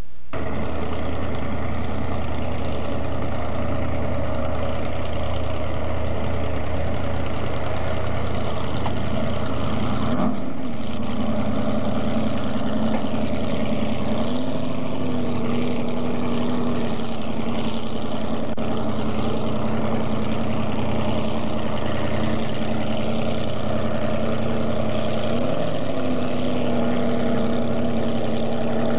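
Boat engine running steadily on the water, with a short knock about ten seconds in, after which the low hum drops, and small rises in pitch around midway and again near the end.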